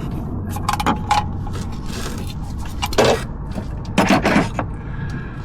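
Hand tools handled on metal parts: a few sharp clinks and knocks with scraping, the loudest about three and four seconds in, over a steady low hum.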